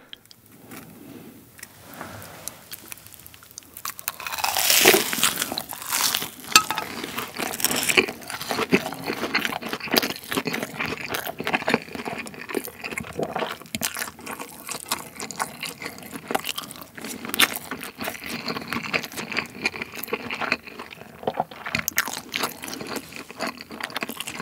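Close-miked biting and chewing of an air-fried breaded rolled pork cutlet, the crisp crumb coating crunching and crackling. It is quiet for the first few seconds, then dense crunching sets in about four seconds in and carries on.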